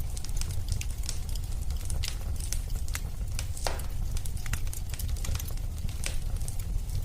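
Wood fire burning in a fireplace: a steady low rumble of the flames with irregular crackles and pops, one louder pop about three and a half seconds in.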